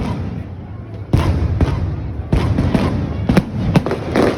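Aerial fireworks bursting: after about a second, a quick run of about seven sharp booms, each trailing off in a rumble.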